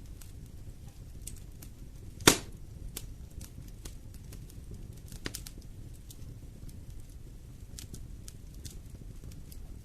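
Wood fire in a fireplace crackling over a low steady rumble of flame, with scattered small snaps and one sharp loud pop about two seconds in, and a lesser pop about five seconds in.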